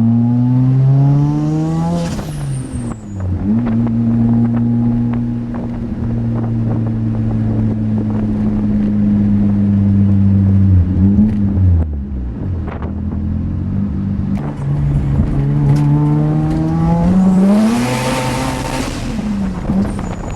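Single-turbo Mazda RX-7 FD3S 13B twin-rotor rotary engine through a 3.5-inch straight exhaust, pulling hard with the pitch climbing and dropping sharply at gear changes, about two seconds in and again near the end. In between it holds a steady pitch for several seconds, dips, and climbs again, with a loud rushing hiss about three-quarters of the way through.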